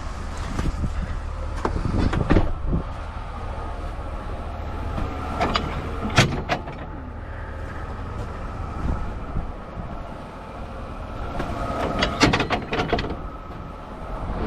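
Truck engine idling steadily, with several sharp metal knocks and clanks, a cluster of them near the end.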